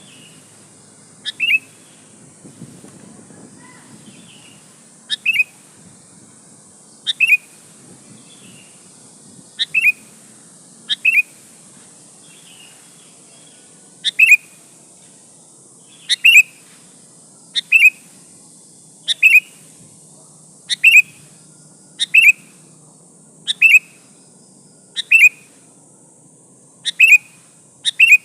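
Female sooty-headed bulbul calling over and over: short, sharp double notes that sweep downward, repeated every second and a half to two seconds. This is the call of a female in breeding condition summoning a male.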